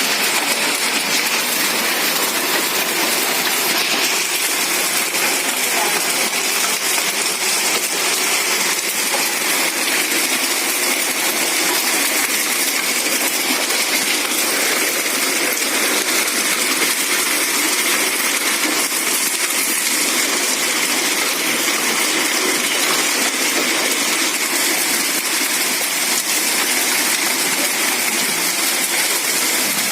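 Hailstorm: hailstones and rain pelting down on hard surfaces in a dense, steady clatter of countless small ticks.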